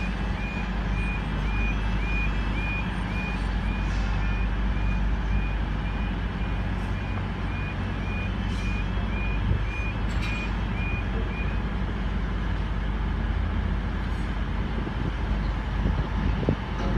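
Diesel freight locomotive, a DB red Class 66, rumbling steadily as its train pulls in. A high electronic beep repeats about one and a half times a second over it and stops about eleven seconds in.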